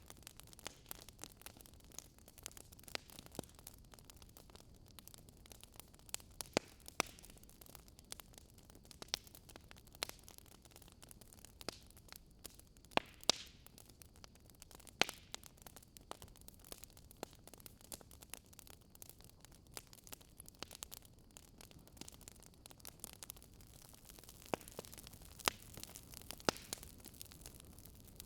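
Wood fire crackling in a fireplace: irregular sharp pops and snaps, some louder than others, over a low steady hiss.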